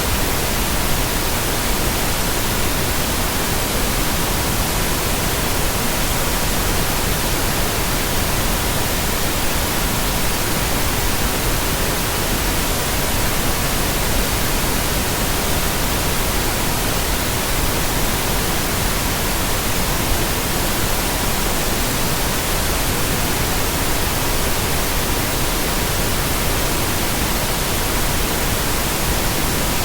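Synthesized pink noise, a steady, even hiss, with a faint steady 963 Hz tone running underneath it.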